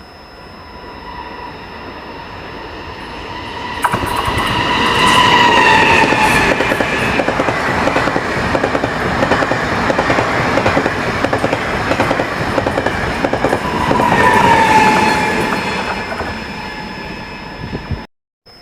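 A train passing along the rails: its running noise builds sharply about four seconds in, stays loud, then fades. Twice a high tone drops in pitch as it goes by, once near the start of the pass and once near the end. The sound cuts off suddenly just before the end.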